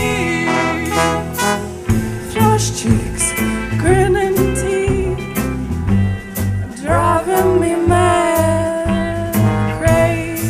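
Band music: a melody line bending in pitch over a pulsing bass line and drums, with the bass pattern changing about two seconds in.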